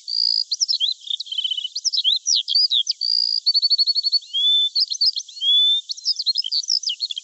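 Birds singing: a busy run of quick high whistled chirps, rising and falling slurs and a few short rapid trills, with nothing lower underneath.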